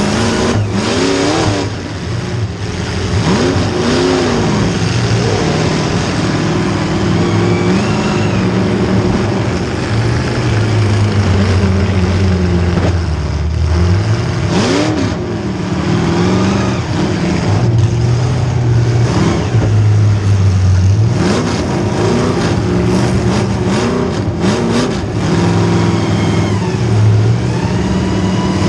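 Small-block Chevy V8 in a demolition derby car, revved hard and let off again and again, its pitch climbing and falling every second or two. Several sharp bangs come through, the loudest cluster about two-thirds of the way through.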